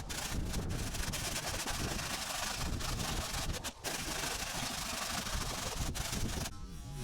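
A stiff brush scrubbing the shed's corrugated metal roof, a steady coarse scraping that stops about six and a half seconds in.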